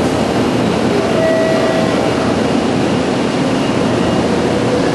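Steady, loud rushing hum of a Shinkansen 0 series train standing at the platform with its onboard equipment running. A faint held tone is heard about a second in.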